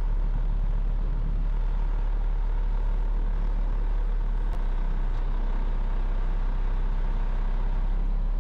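Dump truck's diesel engine running steadily as the truck pulls up, heard from inside the cab, with one faint click about halfway.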